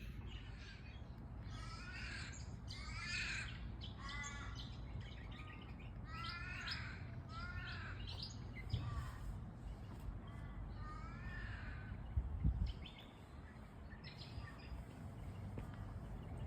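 Australian ravens (the local 'crows') cawing in several bouts of drawn-out, down-curving calls, over a steady low rumble with faint chirping of small birds. A brief low thump about twelve seconds in.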